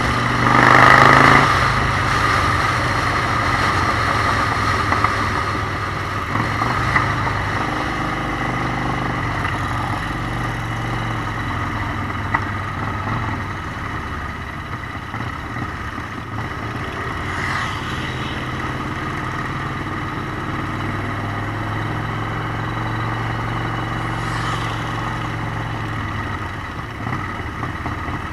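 Motorcycle engine running steadily under way, with a louder surge about a second in.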